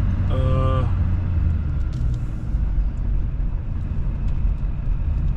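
Chevrolet Silverado's Duramax diesel running as the truck is driven: a steady low rumble of engine and road noise. A short vocal sound comes about half a second in.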